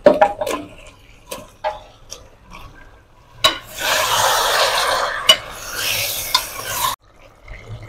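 Marinated chicken pieces go into hot oil in an aluminium pot with a short sizzling splash, followed by a few sharp scrapes and knocks of a metal spatula against the pot. From about three and a half seconds the chicken is stirred in the oil with a loud, steady sizzle and the odd clack of the spatula. The sizzle cuts off suddenly about a second before the end.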